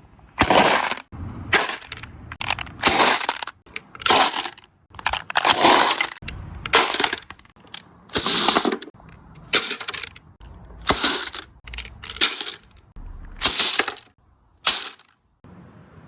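Marbles clattering down a marble run, a long irregular series of sharp clacking rattles, one or two a second, that stop near the end.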